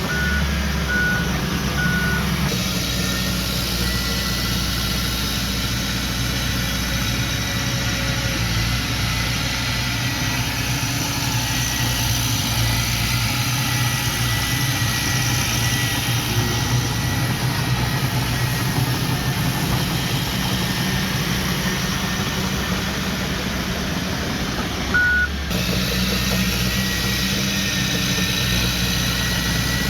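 Engines of earthmoving machinery running steadily under work. Three short reversing beeps sound in the first couple of seconds, and one more about five seconds before the end.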